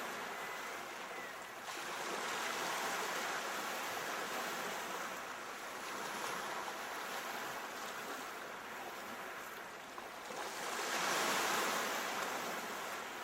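Ocean surf: a steady wash of waves, with swells a couple of seconds in and near the end as waves come in.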